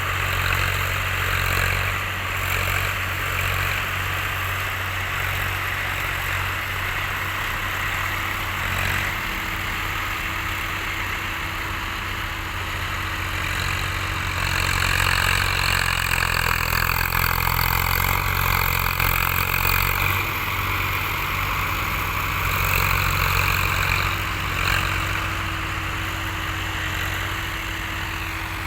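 Tractor engine running steadily, growing louder for several seconds around the middle.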